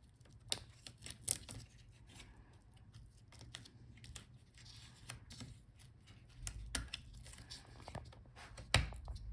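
Small handling noises inside an open laptop as the display video cable is unplugged and freed from around the cooling fan: scattered sharp clicks and taps with soft scraping, the loudest click near the end.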